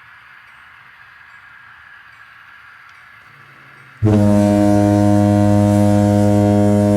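Faint steady hum, then about four seconds in a very loud, steady, buzzy horn tone on a single pitch that holds without change to the end.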